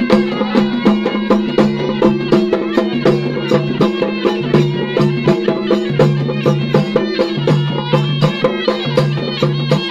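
Traditional folk music: a wavering wind-instrument melody over a held drone, driven by a fast, even drum beat of about four to five strokes a second.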